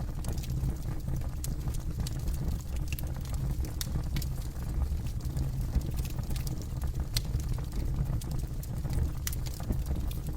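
Campfire burning with a steady low rumble of flames and irregular sharp crackles and pops of burning wood.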